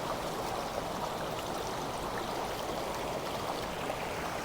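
A river flowing steadily with an even rushing and gurgling.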